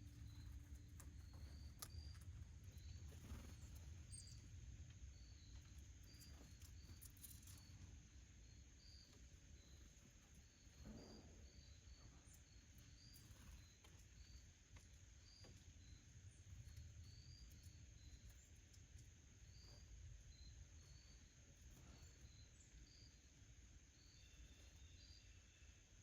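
Faint, short high chirps repeating about once or twice a second, over a low steady rumble and a faint steady high whine.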